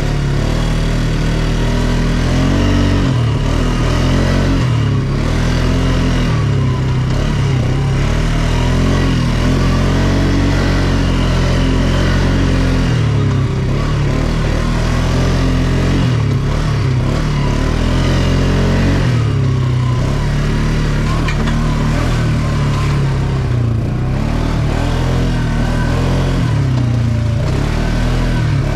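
ATV engine running under way, its pitch rising and falling every few seconds as the throttle opens and eases.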